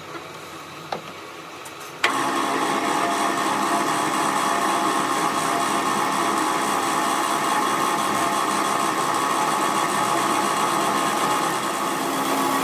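A workshop machine or power tool starts abruptly about two seconds in and runs steadily, with a constant hum of several steady tones over a noisy wash.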